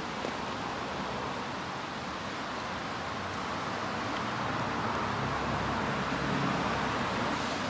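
Steady outdoor noise of rain and road traffic, swelling with a low rumble about halfway through as a vehicle passes on the wet road.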